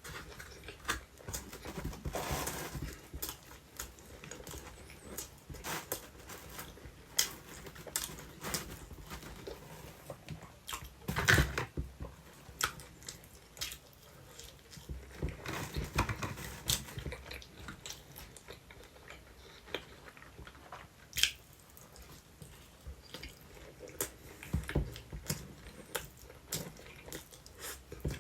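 Close-up chewing of sweet potato pizza, with frequent wet mouth clicks and smacks. A louder bite stands out about eleven seconds in.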